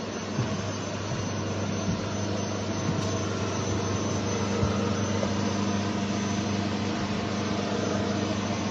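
Steady drone of jet aircraft engines with a low hum, growing slightly louder.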